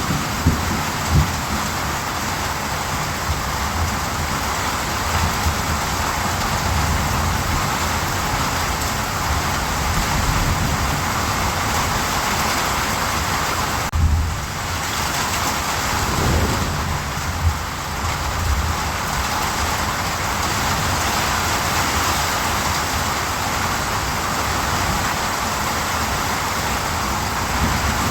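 Steady rain hissing, with low thunder rumbling now and then.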